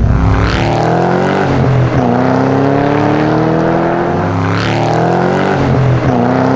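Sports car engine accelerating hard, its revs climbing steadily, with a sudden drop in pitch at each upshift, about two seconds in and again near the end.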